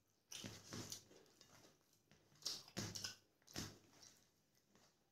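A person chewing and biting on curried chicken with the mouth close to the microphone: a handful of short mouth-noise bursts.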